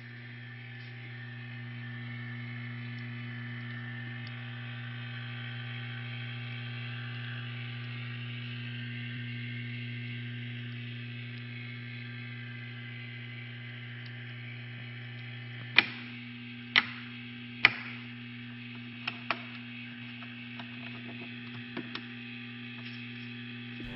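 A steady low hum from a machine or motor, with five sharp clicks or knocks about two-thirds of the way through.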